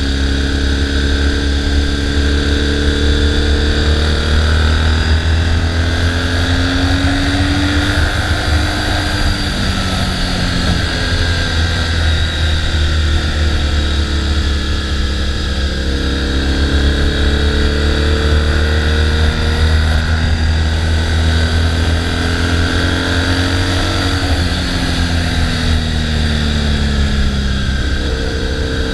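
Triumph Bonneville parallel-twin motorcycle engine running with a steady deep rumble, its note slowly rising and falling in pitch every few seconds as the revs go up and down.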